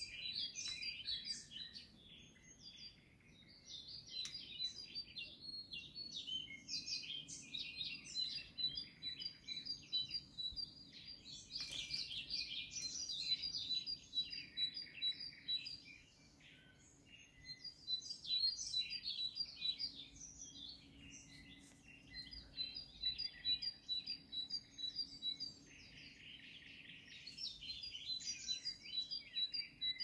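Songbird song: phrases of quick, varied high notes with short pauses between them, over a thin, evenly repeated high note.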